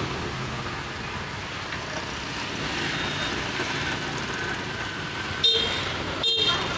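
Steady street traffic noise, with two short, sharp, ringing sounds near the end.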